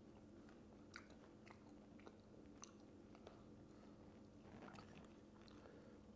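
Faint chewing with scattered small mouth clicks and the soft sounds of fingers tearing flatbread and scooping curry, a little fuller about four and a half seconds in. A faint steady low hum runs underneath.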